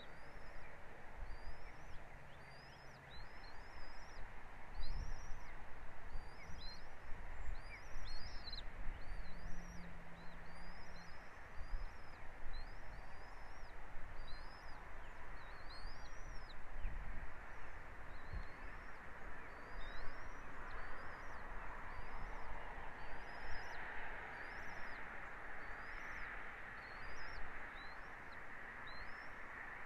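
A bird chirping over and over, short high calls about once a second, over a steady background hiss.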